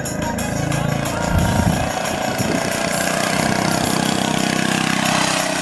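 Minibike's small engine running, its pitch rising and falling.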